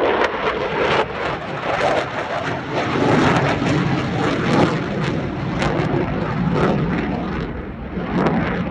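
Eurofighter Typhoon jet flying past with its twin Eurojet EJ200 turbofans: a loud, crackling jet noise that stays strong throughout and begins to ease near the end.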